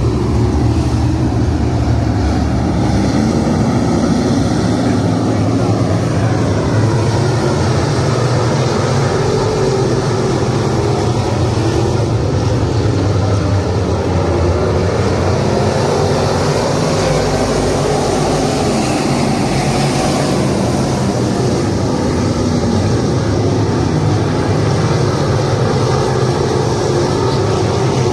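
Dirt-track modified race cars' V8 engines running continuously, their pitch rising and falling as they accelerate and lift around the track.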